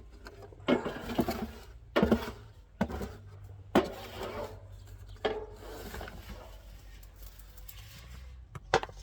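Handling noise from filling a chicken feeder: a series of sharp knocks and clatters with rustling between them, about half a dozen irregular knocks.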